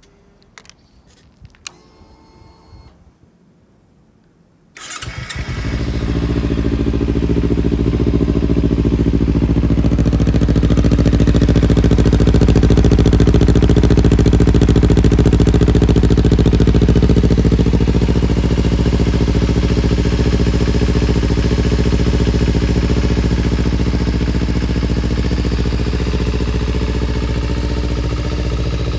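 2016 Kawasaki Ninja 250's parallel-twin engine starting: a few quiet clicks, then about five seconds in the engine catches at once and settles into a steady idle.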